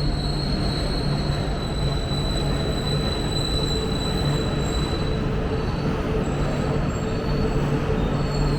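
Cabin noise of an E4 series Max Shinkansen under way: a steady rumble of the running train with a thin high whine held above it.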